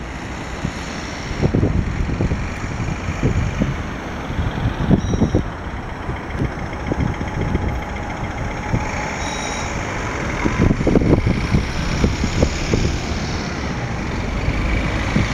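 Jet aircraft noise at an airport: a steady rushing rumble with irregular low surges and a faint high whine now and then.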